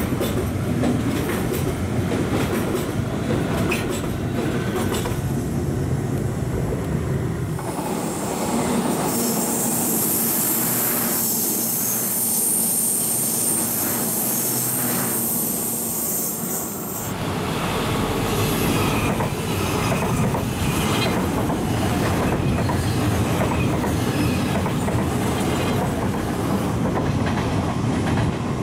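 NS electric passenger trains running through the station, with steady wheel-on-rail rumble and clatter. In the middle stretch a high wheel squeal rings out for several seconds.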